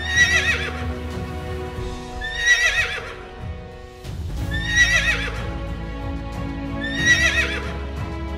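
A horse whinnying four times, evenly spaced about every two and a half seconds, each call wavering up and down in pitch, over background music.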